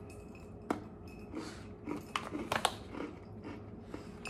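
Crunchy chewing of a grain-free Mexican shortbread cookie, close up. There is a sharp crunch well under a second in, and a cluster of louder crunches around two to two and a half seconds.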